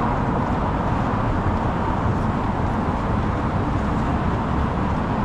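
Steady city street traffic: a continuous low rumble of passing vehicles, with no single event standing out.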